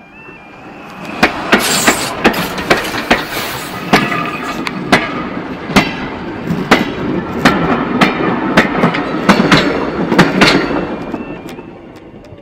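A steam train's wheels clattering over the rail joints as it passes close by: a rapid, uneven run of sharp clacks that builds about a second in and fades near the end. A level crossing's two-tone warning alarm sounds at the start and again near the end.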